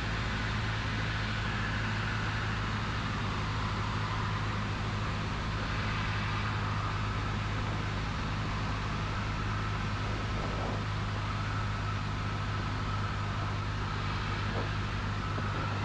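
Steady drone of a Cessna 172N's four-cylinder Lycoming engine and propeller in flight, holding an even pitch and level.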